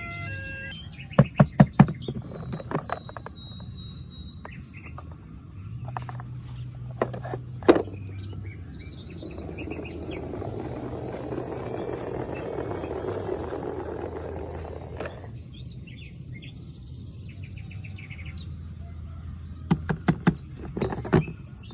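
Plastic toy vehicles being handled: clusters of sharp clicks near the start and again near the end. In the middle there is a steady rushing noise with a faint high whine that lasts about six seconds.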